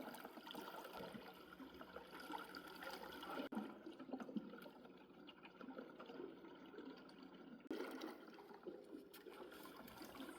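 Faint water trickling and lapping, with abrupt changes in the background about three and a half seconds and nearly eight seconds in.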